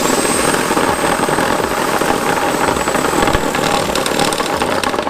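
Electric power tool running at a steady high speed with a thin high whine, cutting through a part that has metal inside; it starts abruptly and stops after about five seconds.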